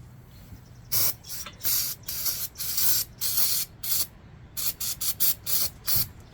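Aerosol can of solvent cleaner sprayed in about a dozen short hissing bursts, starting about a second in.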